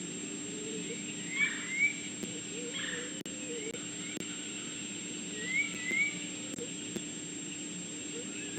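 A bird calling: two quick rising chirps about a second and a half in, and another pair about two seconds later, over a steady outdoor hiss and a constant low hum.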